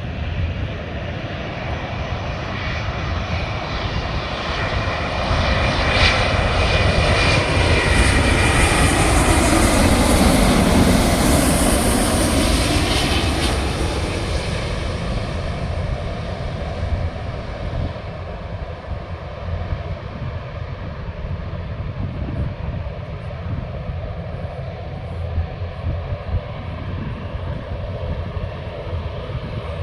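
Airplane engines passing by: the sound swells to a peak about ten seconds in, its pitch dropping as the aircraft goes past, then fades away.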